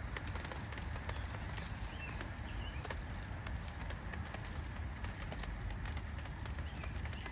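Outdoor ambience: a steady low rumble with fine scattered ticks, and a few short, faint bird chirps.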